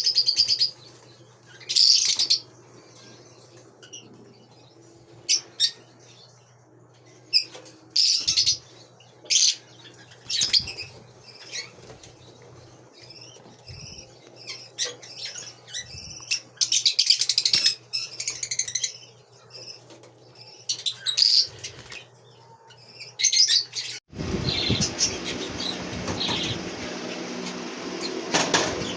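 Caged lovebirds giving short, shrill chirping calls in repeated bursts with quiet gaps between them. A dense, steady rushing noise sets in suddenly near the end.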